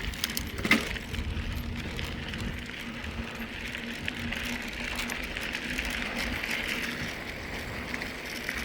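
Mountain bike rolling along a packed trail surface: a steady tyre crunch and hiss with a faint steady hum, and a sharp knock about a second in.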